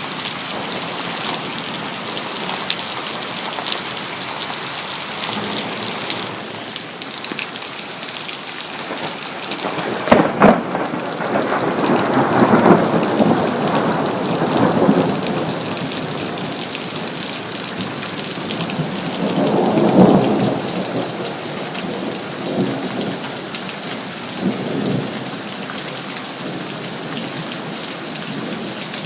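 Steady rain falling, with a sharp thunderclap about ten seconds in that rolls into a long rumble. A second swell of thunder comes about two-thirds of the way through, then a couple of fainter rumbles.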